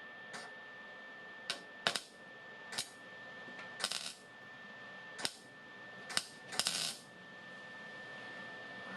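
Welder laying short tack welds on sheet-metal rust repair: about eight brief bursts at uneven intervals, two of them a little longer, over a faint steady high whine.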